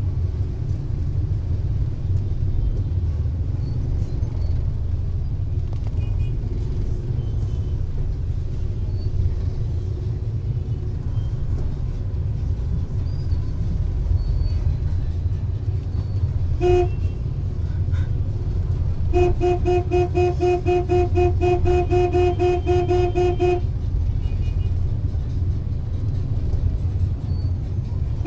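Dense motorbike traffic running steadily. A single horn toot comes a little past halfway, and a little later a horn gives a rapid string of toots, about three a second, for about four seconds.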